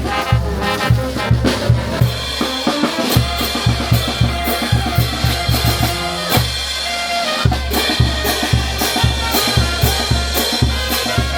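Peruvian brass band playing festive music. Brass plays over bass drum, snare and cymbals that keep a steady beat. The bass drum drops out for about a second a little past the middle.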